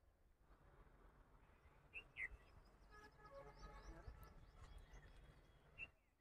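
Faint outdoor ambience: birds chirping now and then over a faint low rumble.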